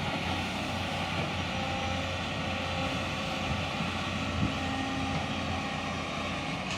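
Doosan excavator's diesel engine running steadily, a continuous low hum with a few faint higher tones over it.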